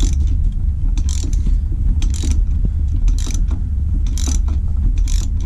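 Socket ratchet with an extension loosening 10 mm bolts on a Kawasaki KLX110 engine's top end. The pawl clicks in a short burst about once a second on each back-swing, over a steady low rumble.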